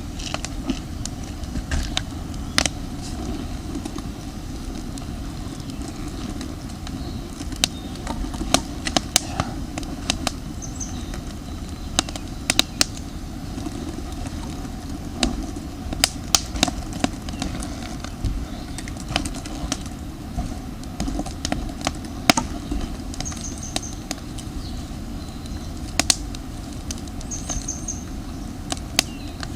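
Campfire of damp firewood crackling, with irregular sharp pops and snaps over a steady low rumble. A few short high bird chirps come in near the end.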